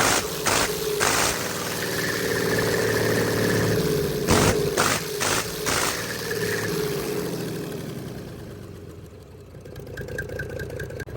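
Rebuilt Komatsu D155 bulldozer's six-cylinder diesel engine idling, broken by short loud bursts: three near the start and four more about four to six seconds in. The engine sound fades somewhat about eight seconds in, then picks up again near the end.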